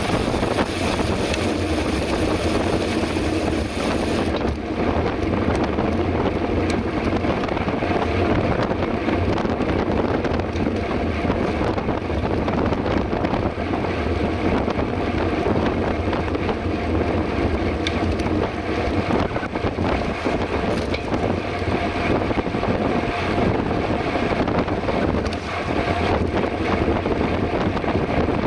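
Steady wind rushing over the microphone with tyre and drivetrain noise from a mountain bike ridden fast on the road.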